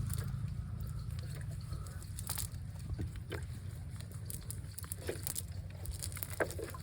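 A low, steady engine hum, with scattered clicks and a few brief calls over it.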